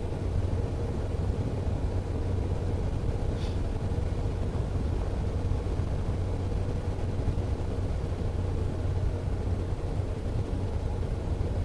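Car driving on a paved road: a steady low rumble of engine and tyres, with a faint brief tick about three seconds in.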